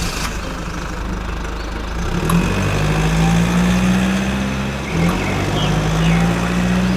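Engine running steadily with a low hum, its pitch stepping up about two seconds in and dipping briefly near five seconds.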